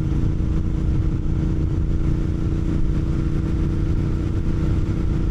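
Royal Enfield GT 650's parallel-twin engine running at a steady speed while riding, with a heavy low rumble under an even engine note.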